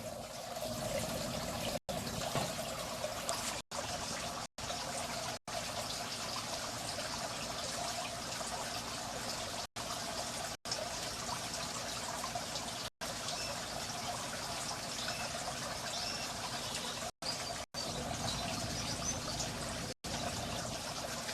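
Water from a small garden-pond waterfall running steadily, broken by several short silent dropouts.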